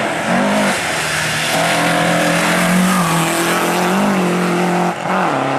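Hill-climb race car engine running hard at high revs with a steady, loud note and small blips in pitch. Near the end the sound dips briefly, and the pitch falls and then climbs again.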